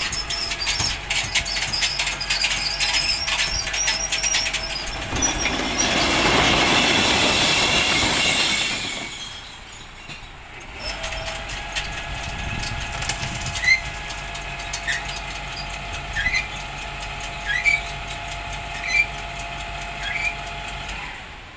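Enviro NZ glass recycling truck at work: its lifting gear clatters and squeals, then a loud rushing crash, typical of glass bottles being tipped into the truck, lasts about three seconds. The truck then runs steadily, with short rising chirps about every second and a half.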